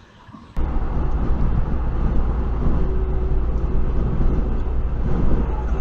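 A vehicle on the move, with steady road and engine rumble as heard by a dashcam. It starts abruptly about half a second in, with a faint steady hum over it.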